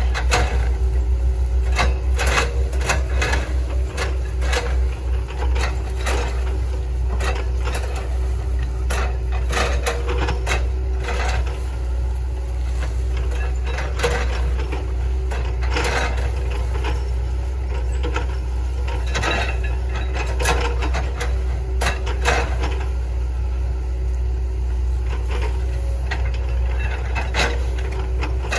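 Hitachi ZX110 MF excavator's diesel engine running steadily with a low drone, under frequent irregular sharp cracks and knocks of wood as it chips up an oil palm trunk.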